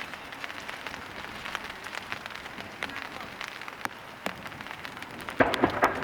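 Rain falling and drops pattering on a surface close by, as a steady hiss with many sharp ticks. A quick cluster of louder knocks comes near the end.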